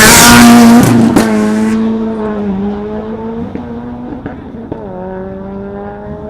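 A racing vehicle's engine accelerating hard, its pitch climbing, dropping at upshifts about three and a half and five seconds in, then climbing again. It opens with a loud burst of rushing noise.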